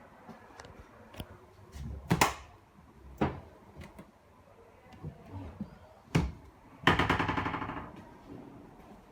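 Sharp knocks, two about a second apart and a third a few seconds later, then a short rapid rattle of clicks lasting under a second.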